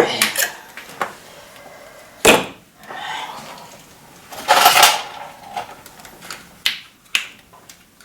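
Hand tools and engine parts being handled while parts are removed from the engine. There is a sharp clank about two seconds in, a louder half-second rattle near the middle, and a few small clicks toward the end.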